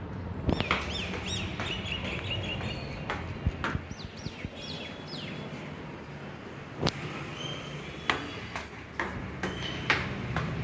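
Birds calling in short high chirps that sweep sharply up and down, coming in clusters, with a few sharp clicks and a low steady hum underneath.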